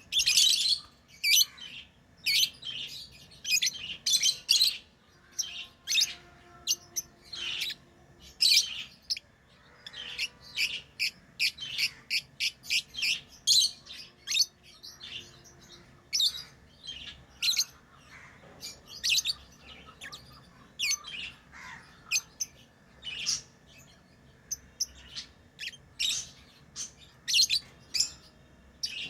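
Pet lovebirds chirping: a rapid, irregular stream of short, high-pitched chirps.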